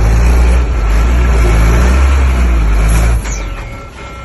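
Heavy diesel engine of an earthmoving machine running hard and loud, with a deep low drone, easing off a little after three seconds in.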